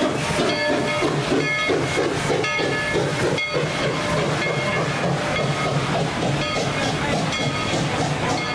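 Narrow-gauge steam locomotive No. 190 working, its exhaust chuffing about three times a second over a steady hiss of steam, with brief high ringing tones from the running gear.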